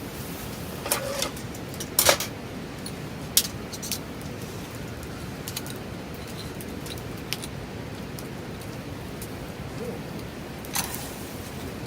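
Scattered light clinks and knocks, as of small hard objects being handled, over a steady background hiss. The loudest knock comes about two seconds in and another near the end.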